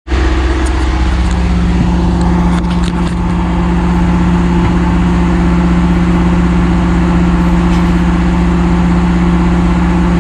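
Heavy equipment engine running steadily at a constant speed, a strong even hum, with a few faint clicks about two and a half seconds in.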